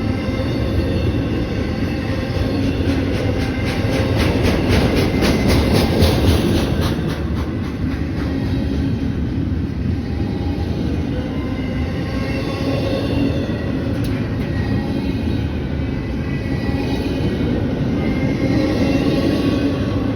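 A train rolling along the rails, with a rapid run of wheel clicks over rail joints about three to seven seconds in, then a steady rumble.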